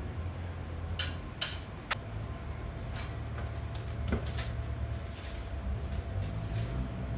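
A few sharp clicks and knocks of hard objects being handled over a steady low hum. Three of them come close together about a second in, with fainter ones after.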